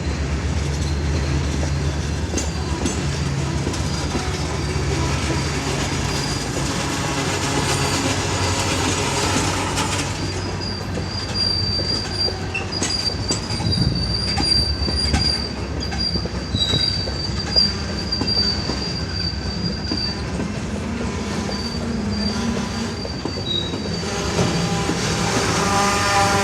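Freight train passing: a diesel locomotive's low rumble fades over the first several seconds as the freight cars roll by with rhythmic wheel clicks over rail joints. Through the middle a thin, high, steady wheel squeal comes and goes. Near the end a loud pitched drone with several tones comes in.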